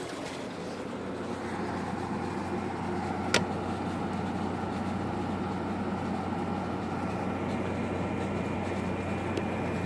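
Frigidaire 5000 BTU window air conditioner running: a steady fan rush over a low compressor hum, the compressor quiet and the fan a little noisy. A single sharp click about three and a half seconds in.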